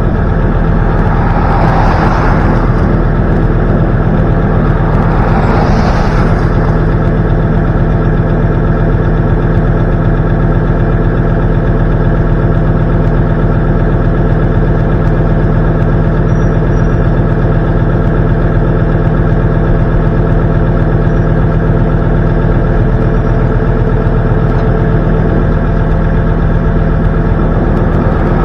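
A vehicle engine running steadily, a constant loud hum, with two brief swells of hiss about two and six seconds in.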